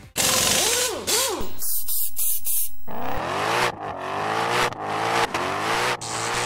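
A loud burst of hissing noise with quick up-and-down pitch sweeps, then, about three seconds in, a car engine revving in a series of rising and falling pulls, roughly one a second.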